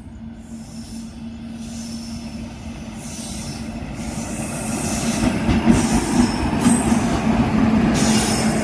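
Railway train running on the track, its wheel-on-rail rumble growing louder for the first five or six seconds as it comes closer, then staying loud, with a steady tone underneath.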